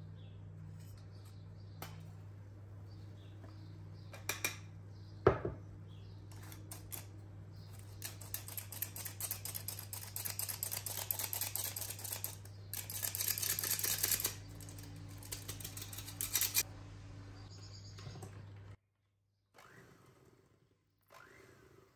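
Kitchen utensils clicking and scraping rapidly, loudest in two spells in the middle, with one sharp knock about five seconds in, over a steady low hum that stops near the end.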